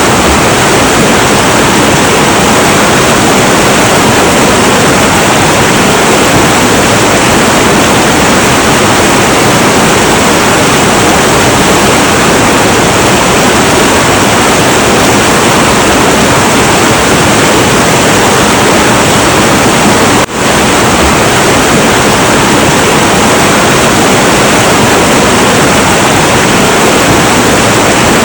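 Heavy, turbulent river water rushing in a loud, steady roar, with one brief dip in level about twenty seconds in.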